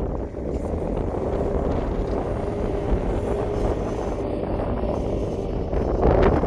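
A vehicle engine running steadily at a constant level, with a faint steady tone over a low rumble.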